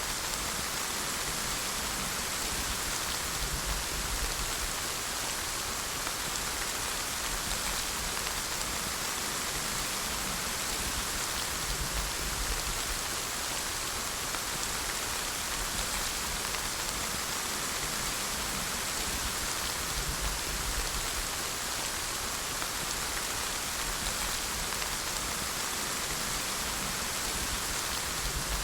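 Steady rain falling, an even hiss of many drops with a faint low rumble underneath.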